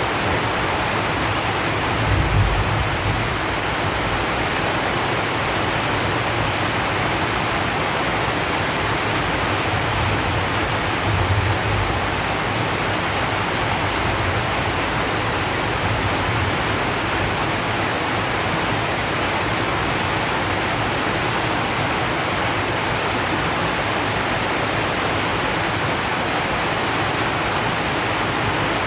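Steady heavy rain drumming on a corrugated zinc roof, an even dense hiss, with brief low rumbles about two seconds in and again around eleven seconds.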